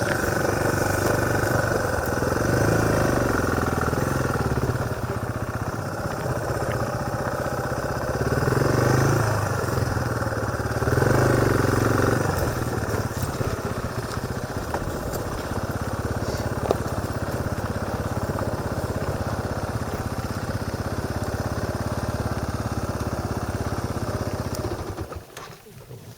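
Motorcycle engine running while riding, heard from a helmet-mounted camera, with the engine note swelling three times in the first half as the throttle opens, then running steadier. Near the end the sound drops away sharply.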